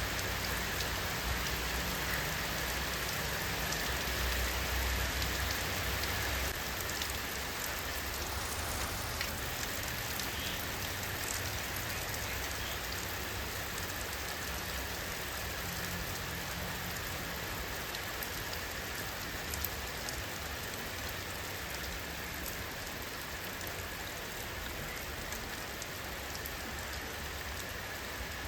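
Steady rain falling, a dense even hiss with scattered individual drops pattering through it; a low rumble underneath eases slightly about six seconds in.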